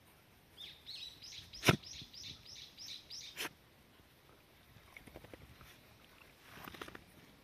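A bird calling: a quick run of about ten high, arched chirps at about four a second. Two sharp clicks sound over it, the first one loud. A soft rustle follows near the end.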